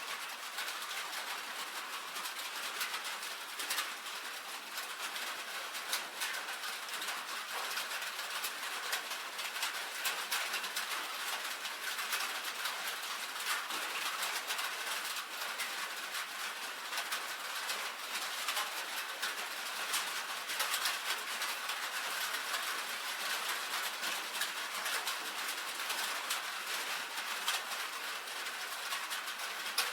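Rain pattering on a tin roof: a steady, dense rattle of many small drop impacts with no pauses.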